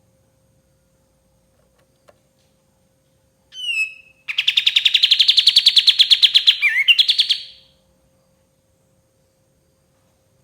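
Kapas tembak bulbul song: a short slurred whistle, then a rapid chattering run of about nine notes a second for some three seconds, broken by one downward slurred note near its end. A faint steady hum runs underneath.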